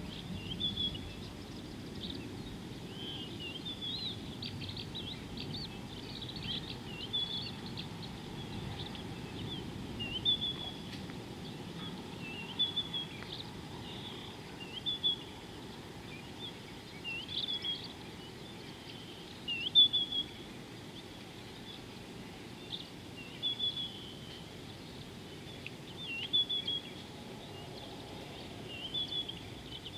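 Wild birds calling: short high chirps and quick whistled notes, repeated every couple of seconds, over a steady low background noise.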